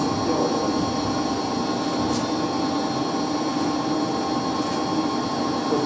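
Steady mechanical hum of running electric circulation pumps, a constant drone with several fixed tones that does not change.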